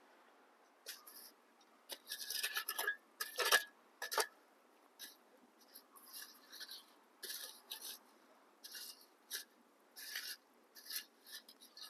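Irregular scraping and rustling as a pork roast is dug out of hot campfire coals, in uneven bursts of a fraction of a second each.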